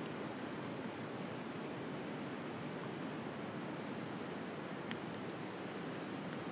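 Steady wash of sea surf with a wood fire crackling, a handful of small sharp pops in the second half.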